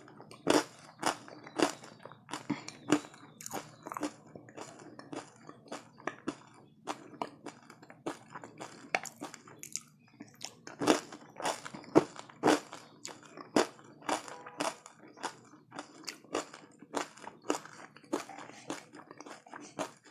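Close-up crunching and chewing of a hard, crunchy mouthful eaten off a spoon: sharp, irregular crunches about one or two a second, some much louder than others.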